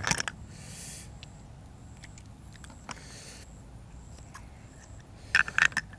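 Close-miked eating sounds: sharp clicks of biting and chewing, loudest in a cluster near the end, with two short hissing slurps, one about half a second in and one around three seconds.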